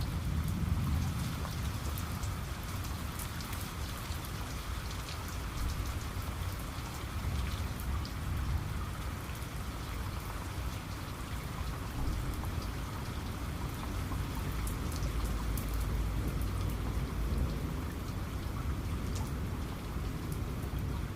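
Steady rain, with many individual raindrops ticking on a surface over an even hiss, and a steady low rumble underneath.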